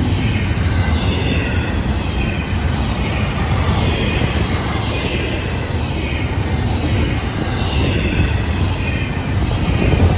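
Florida East Coast Railway freight train of double-stack container well cars rolling past close by: a steady rumble of steel wheels on rail, with a brighter clatter that swells every second or so as car after car goes by.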